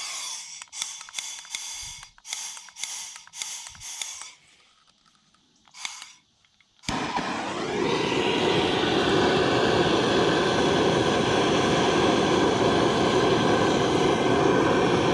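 Gas burner being lit: a series of short hissing spurts of gas for about four seconds, a brief pause, then about seven seconds in it catches and runs with a loud, steady rushing sound.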